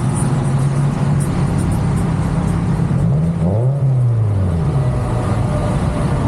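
V8 car engine running hard under acceleration. Its pitch dips about three and a half seconds in, as at a gear change, then climbs again.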